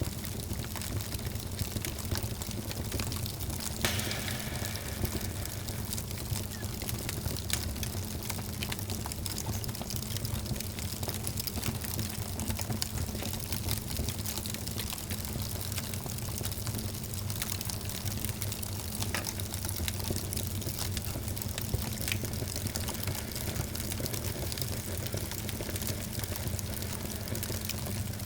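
Wood fire burning in a fireplace, crackling with many small irregular pops and snaps over a steady low rumble of the flames.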